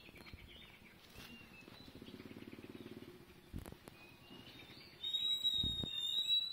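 Birds chirping faintly, then a high, steady whistled call held for about a second and a half near the end.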